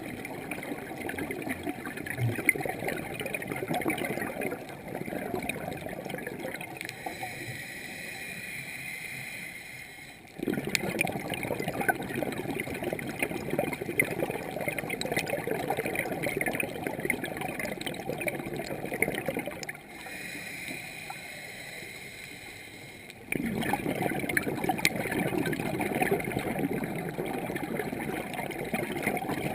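Scuba diver's breathing through a regulator, heard underwater: long rushes of bubbling exhaled air, twice giving way to a quieter hissing inhale through the regulator.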